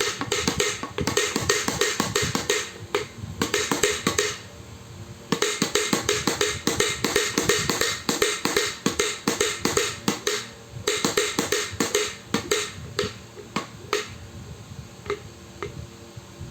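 A baby making rapid clacking clicks in bursts of a few seconds with short pauses, a sound like lato-lato clacker balls knocking together; the clicks thin out to a few scattered ones near the end.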